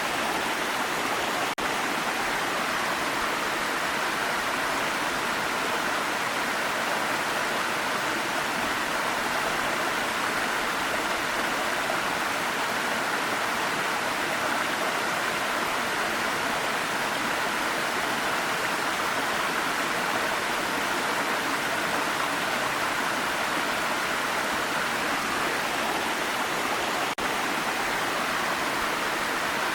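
Steady rush of a waterfall, an even wash of falling water, with two split-second dropouts, one about a second and a half in and one near the end.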